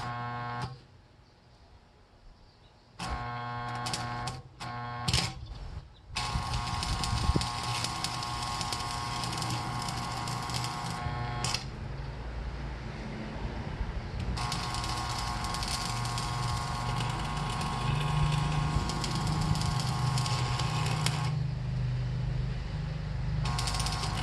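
Electric arc welding: the arc crackles and buzzes in a few short strikes, then burns in long runs of several seconds with short pauses between.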